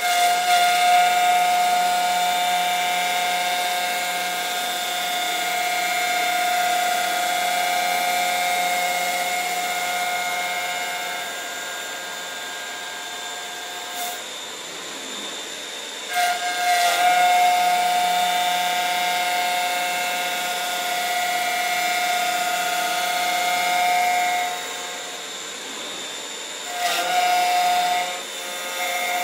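CNC wood lathe turning a baseball bat, with a high, steady whine. The whine breaks off about halfway through, starts again, drops once more near the end and comes back.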